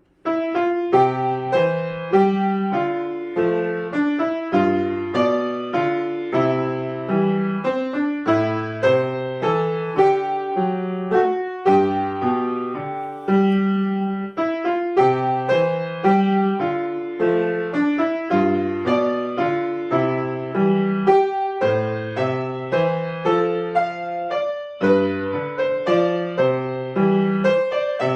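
Solo piano playing a piece, starting right at the opening with a steady flow of struck notes over a repeating bass accompaniment.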